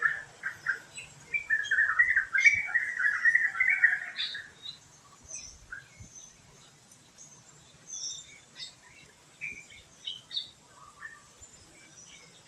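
Wild birds chirping: a loud run of rapid, chattering calls for a few seconds, then scattered short, higher-pitched chirps.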